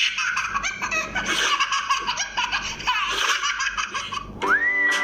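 A baby laughing in a run of high, rapid giggles. Near the end music starts with a note sliding up into a held tone.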